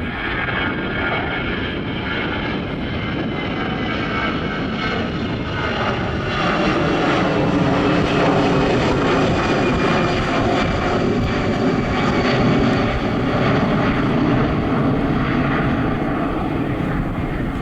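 Airliner engines passing close by: a loud, steady rush with whining tones that builds over the first few seconds, holds, then cuts off suddenly.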